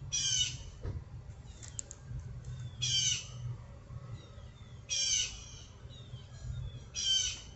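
A bird squawking four times at about two-second intervals, each call harsh and about half a second long.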